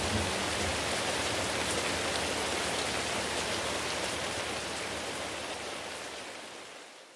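Steady rain falling, fading out gradually over the last two seconds or so.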